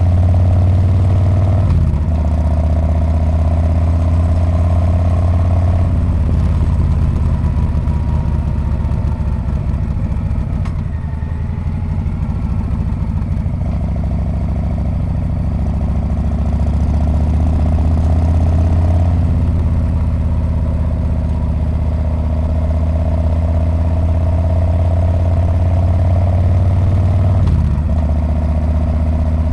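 Harley-Davidson Street Bob's V-twin engine running through its muffler while the bike is ridden, a deep, loud exhaust note. It eases off about ten seconds in, then pulls harder again, with a brief break near the start and another near the end.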